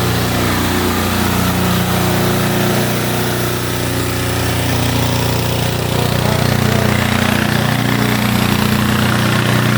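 An engine running steadily with a low hum, its pitch shifting slightly about seven seconds in.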